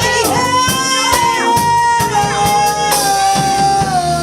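Live band music: a long, high held note that slowly sinks in pitch, over drums.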